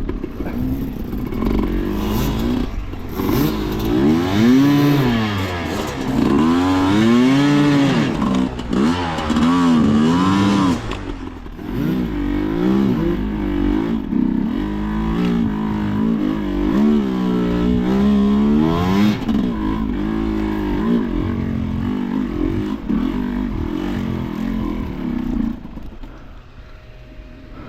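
Off-road enduro motorcycle engine revved up and down in repeated quick swells as the bike is ridden through rough terrain, then dropping back to a low idle near the end.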